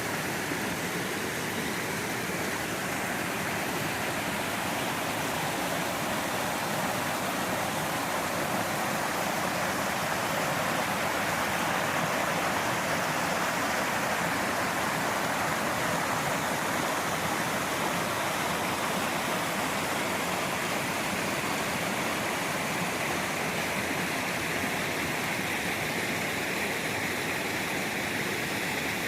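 Waterfall on a creek rushing steadily, a constant roar of falling and splashing water that swells slightly midway.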